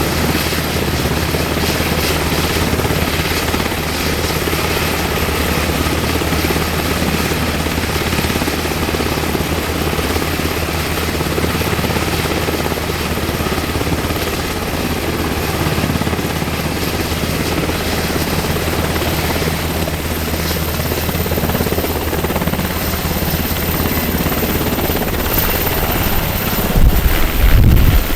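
UH-60M Black Hawk helicopter running with its twin turboshaft engines and rotor, a steady low rotor beat under a high turbine whine that edges up in pitch toward the end. A burst of low rumble comes near the end.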